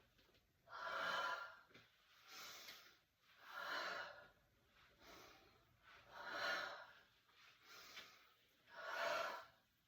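A person breathing audibly through the nose and mouth in steady, deep breaths, about seven in all. The breaths swell and fade in turn with the flowing tai chi movement.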